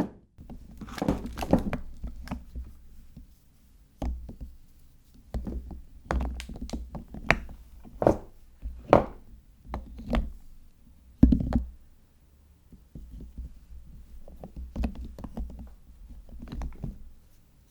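Hands unpacking and handling bars of soap: irregular knocks and thunks as bars and packages are set down on a hard surface, with lighter taps and handling noise between, the loudest knocks around 7 to 11 seconds in.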